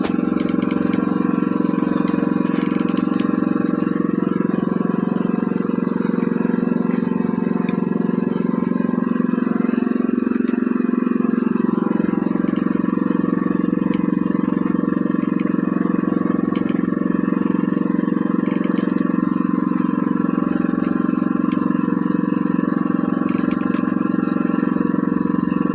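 Engine running steadily at a constant speed, a loud even drone.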